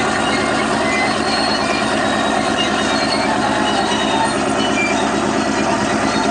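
Crawler tractor running under load, its engine going steadily while the steel tracks clank and give short high squeaks.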